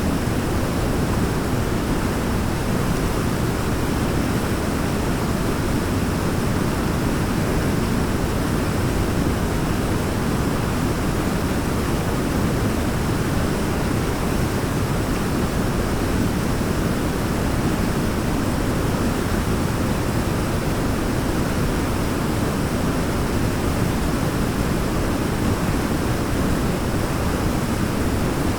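A waterfall's steady rushing, an even, deep wash of water noise that never changes.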